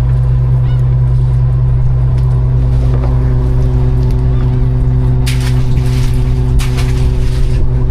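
Fishing boat's engine running with a steady low drone, with two short bursts of hissing noise about five and seven seconds in.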